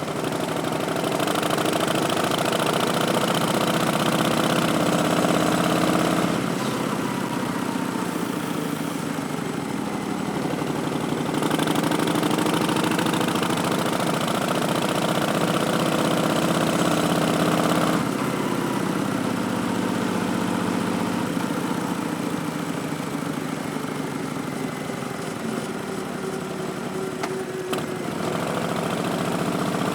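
2019 Harley-Davidson Street Bob's Milwaukee-Eight 107 V-twin running through Vance & Hines Twin Slash slip-on mufflers, its note climbing under throttle and falling back as the throttle closes, several times over. It runs louder in the first few seconds and in the middle, and quieter in two stretches, about six and about eighteen seconds in.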